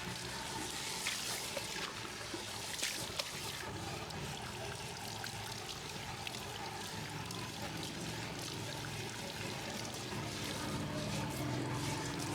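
Water pouring and trickling steadily while hair is rinsed during a hair wash.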